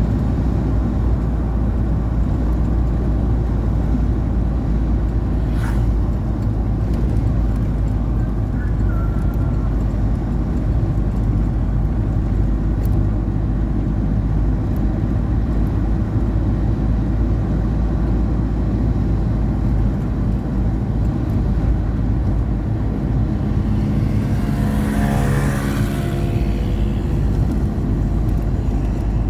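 A steady low rumble that never lets up, with a brief click about six seconds in and a passing engine-like sound that swells and fades about twenty-five seconds in.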